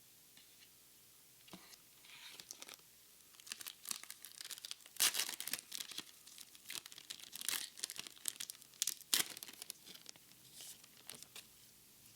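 Pokémon card booster pack wrapper being torn open and crinkled: a run of sharp rustling tears and crackles that starts about a second and a half in, is loudest around five and nine seconds in, and dies away near the end.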